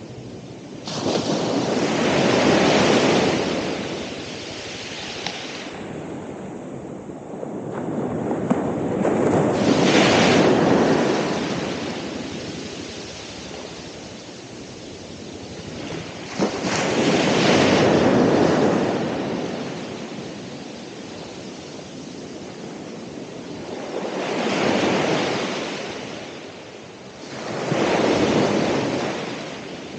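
Ocean waves breaking and washing up the shore: five surges of rushing surf that each swell and fade over a few seconds, the last two close together near the end, with a softer steady wash between them.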